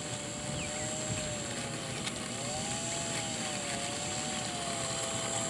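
Small electric motor and propeller of a UMX Cessna 182 radio-control plane whining in flight, its pitch wavering up and down and growing a little louder near the end.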